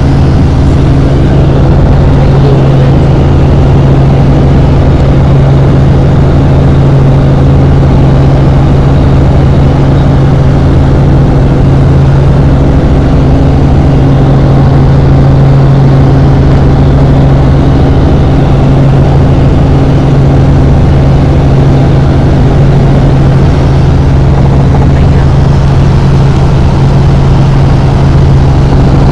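Helicopter in flight: loud, steady rotor and engine noise, an unchanging hum with a low pulsing beat underneath.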